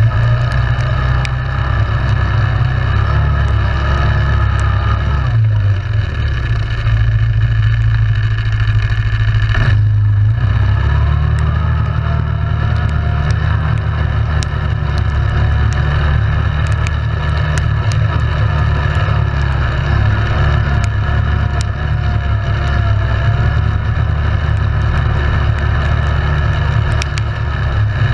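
Yamaha Grizzly 700 ATV's single-cylinder engine running while riding, loud and steady. About ten seconds in, the engine note briefly drops off, then picks back up and wavers with the throttle. Light clicks and rattles are scattered throughout.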